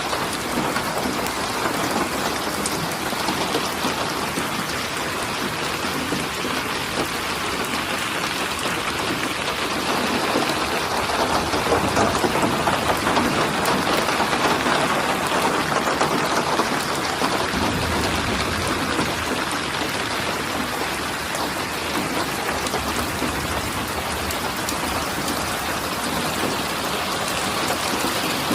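Steady heavy rain falling on surfaces, a dense even patter that grows a little louder partway through.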